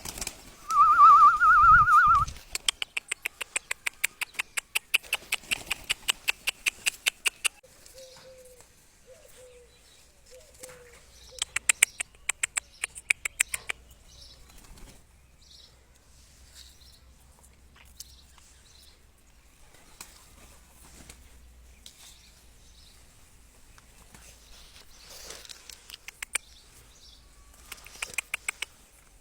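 Pigeon wings flapping in runs of rapid beats, about ten a second: a long run from about three to seven seconds in, a shorter one around twelve seconds, and more near the end. A loud wavering whistle sounds in the first two seconds, and a few soft short low notes come around nine to ten seconds in.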